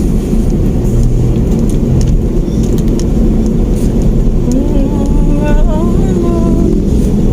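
Steady engine and road rumble inside a moving Mitsubishi Mirage hatchback. A voice singing a wavering melody comes in over it from about halfway through for a couple of seconds.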